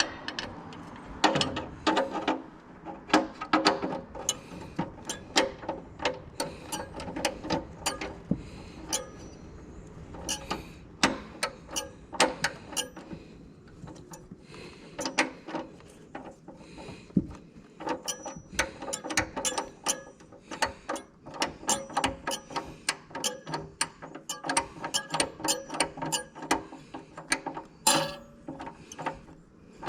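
Socket ratchet wrench clicking in quick runs as bolts are turned, with short pauses between strokes.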